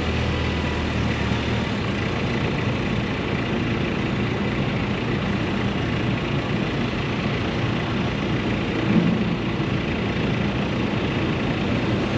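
Steady city traffic noise, with a low engine hum that stops about a second and a half in.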